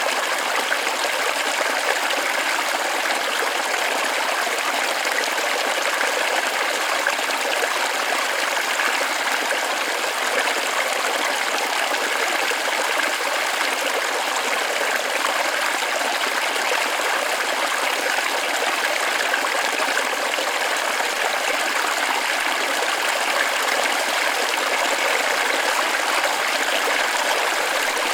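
Small forest waterfall splashing steadily into a creek: an even, unbroken rush of water with little deep rumble.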